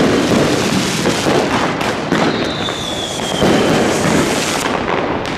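New Year's fireworks going off all around: continuous crackling and banging from many firecrackers and rockets at once. About two seconds in, a whistling rocket's whistle slides slightly down in pitch over about a second and a half.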